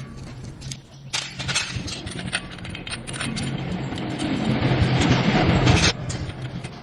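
Metal parts and tools clinking and knocking in quick succession over a steady low machine hum. A harsher noise builds up and cuts off abruptly near the end.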